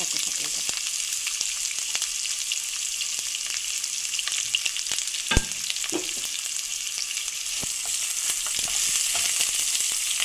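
Onion frying in hot oil with bay leaf and cinnamon in a pan, stirred with a spatula. A steady sizzle with scattered light clicks of the spatula, and one louder knock about five seconds in.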